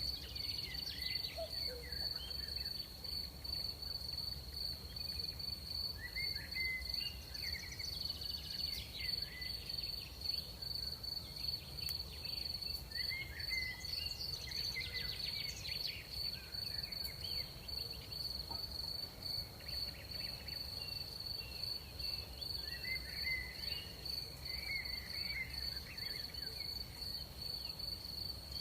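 Night insects, crickets, keep up one steady high-pitched trill, with scattered shorter chirps from other callers over a low, steady background rumble.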